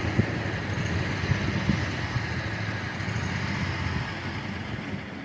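Steady low rumble of a motor vehicle running, easing off slightly near the end.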